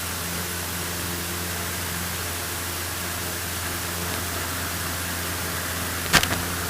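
Steady rush of engine and wind noise inside a Cessna 152's cabin during its takeoff climb, with a low constant hum from its Lycoming four-cylinder engine; the cabin door has popped open just after liftoff. A brief sharp knock sounds about six seconds in.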